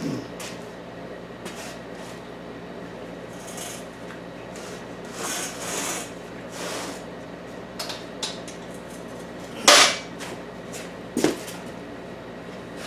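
Sand-casting mold being opened to free a freshly poured aluminum casting: sand scraping and sliding with scattered small knocks, then a loud sharp knock about ten seconds in and a lighter one a second and a half later.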